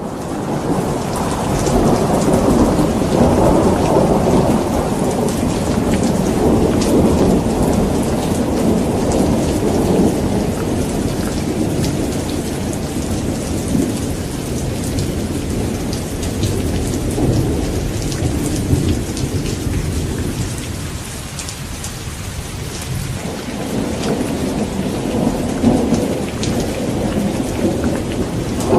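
Thunderstorm: steady heavy rain with pattering drops under long rolling thunder, which eases off about two-thirds of the way through and builds again near the end.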